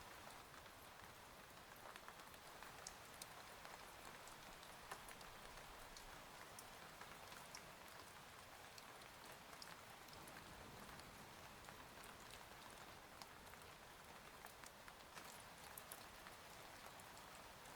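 Faint steady rain, with scattered small drop ticks over a soft hiss.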